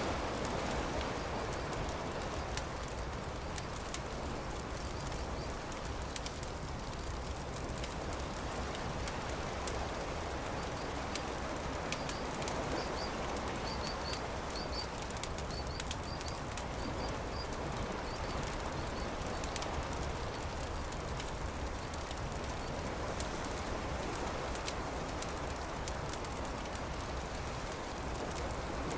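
Campfire crackling and popping over a steady wash of noise, with a few short, high bird chirps about halfway through.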